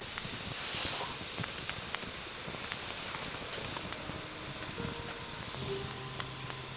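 Wood campfire crackling: scattered pops and ticks over a steady hiss. Soft music notes come in about five seconds in.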